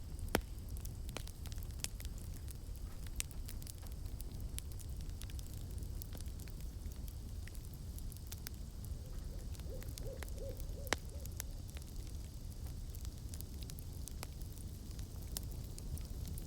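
Campfire crackling, scattered sharp pops over a steady low rush, with an owl hooting a short run of about five low notes about nine to eleven seconds in.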